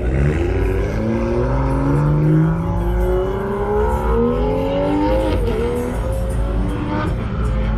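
A car engine accelerating, its pitch rising steadily for about five seconds, dipping briefly, then holding steady over a deep rumble.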